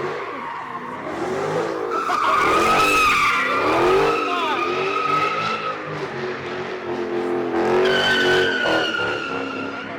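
Car tyres squealing in long, wavering screeches over a hard-running engine, as a car spins its wheels in a street-meet burnout. The squeal is loudest from about two to six seconds in and again near the end.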